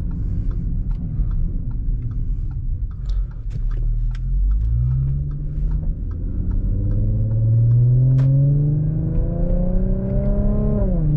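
2017 Audi SQ5's V6 with AWE non-resonated downpipes and Touring catback exhaust, heard from inside the cabin. It drones low at first, then from about four seconds in the exhaust note climbs steadily as the car accelerates through a held gear. Near the end the pitch falls sharply at an upshift.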